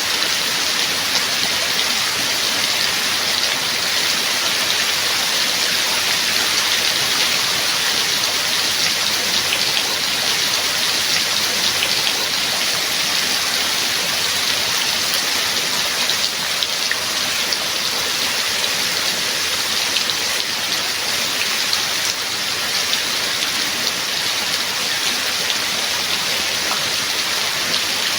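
Steady rain: a dense, even hiss of falling drops with fine individual drop ticks, unchanging throughout.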